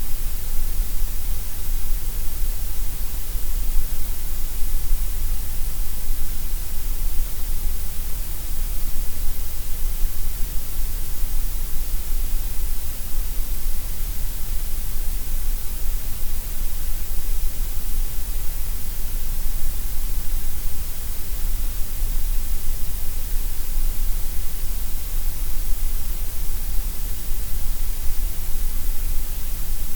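Steady synthetic gray noise: an even, unchanging hiss with a deep low rumble, weaker in the middle range than at the bottom and top.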